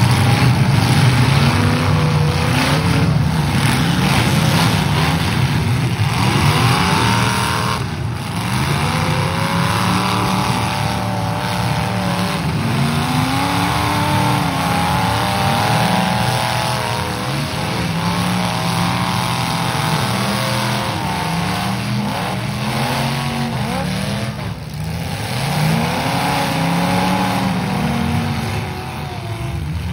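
Several demolition derby cars' engines revving hard and unevenly, their pitch rising and falling over and over as the drivers accelerate and back off.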